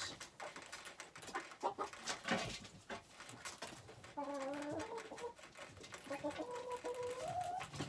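Chickens clucking, with a drawn-out call about four seconds in and another near the end, over scattered rustling and knocks.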